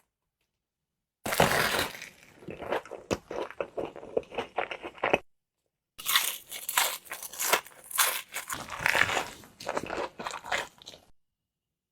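Close-miked eating: a loud crunchy bite followed by wet, crackly chewing, heard in two separate stretches of about four and five seconds with silence before, between and after.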